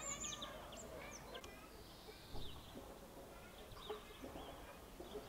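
Faint outdoor ambience with small birds chirping now and then in short, high, falling notes, and two soft knocks about two and a half and four seconds in.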